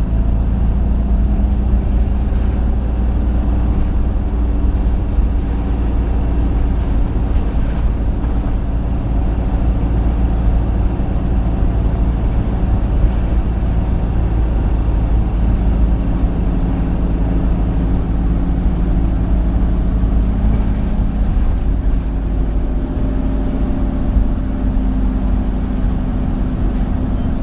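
Isuzu Erga city bus with a four-cylinder turbo-diesel engine, heard from inside the passenger cabin while driving. A heavy low rumble runs throughout, and the engine note shifts pitch a few times as the bus changes speed.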